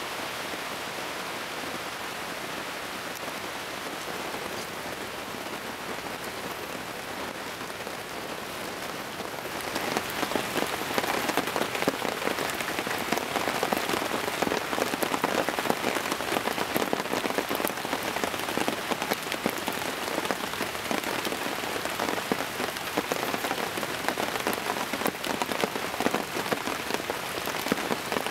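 Heavy rain falling in the forest, a steady hiss that about a third of the way in turns louder and denser, with many separate drops hitting close by.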